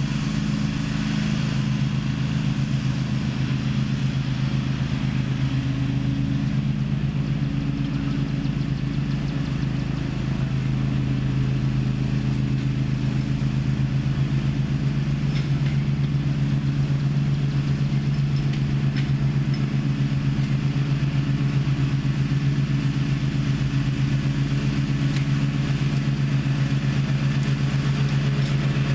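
Gravely ZTX 42 zero-turn riding mower engine running at a steady speed, an even drone with no revving.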